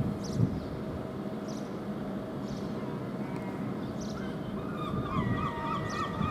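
Arriving Class 395 high-speed electric train, its brakes squealing in several wavering tones from about halfway in as it slows into the platform. Under the squeal runs a steady low hum, with short high ticks about once a second.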